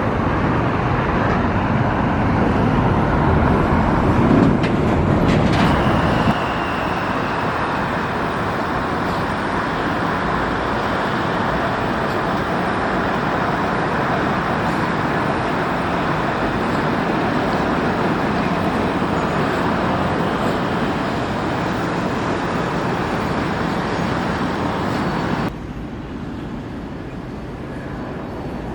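Boeing 767-400 jet engines making a steady, loud rushing noise as the airliner lands. A faint falling whine comes in about six seconds in, and the sound changes abruptly twice.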